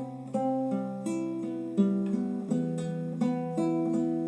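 Acoustic guitar playing a slow fingerpicked passage: single notes and bass notes plucked one after another and left to ring.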